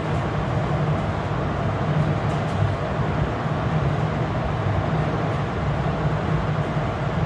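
Steady low rumble of a moving passenger train, even throughout, with a few faint light ticks about two seconds in.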